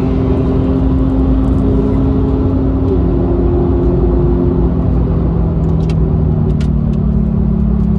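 Nissan 370Z's 3.7-litre V6 engine heard from inside the cabin, running at steady revs over road rumble, its pitch easing down a little about five seconds in.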